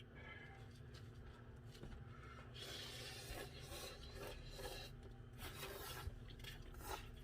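Faint scraping and rubbing of an eating utensil in a bowl of ramen noodles, loudest in the middle, with a few light clicks.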